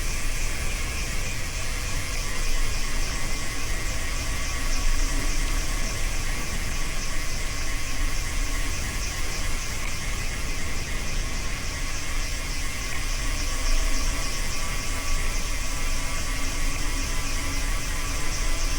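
Steady wind rush and rumble on a bicycle-mounted camera's microphone, mixed with bicycle tyre noise, as the bike rides along at speed.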